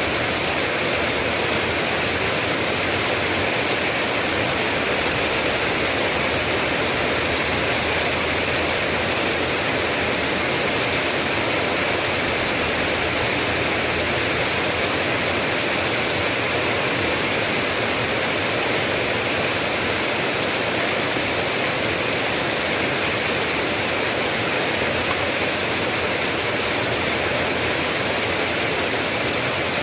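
Steady rain falling, a dense, unbroken hiss with no single drops or thunder standing out.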